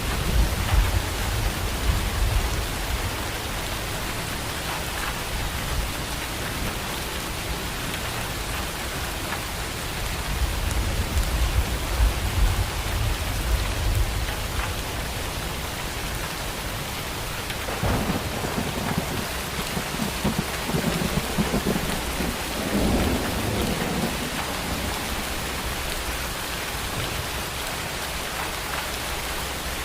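Steady heavy rain with rolling thunder: a deep rumble at the start, another swelling up about a third of the way in, and a third with a crackling edge about two thirds of the way through.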